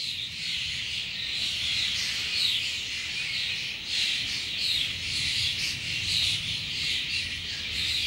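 Outdoor birdsong: several birds chirping and calling at once in a dense, continuous chorus, over a faint low rumble.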